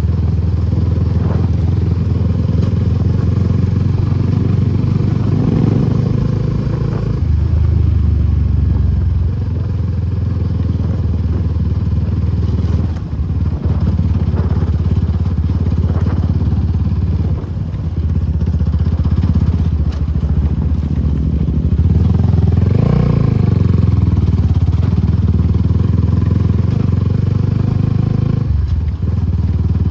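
Suzuki Gixxer SF250's single-cylinder engine through an Akrapovic exhaust, running steadily under way, its note shifting a few times, with brief drops in level about 13, 17 and 29 seconds in.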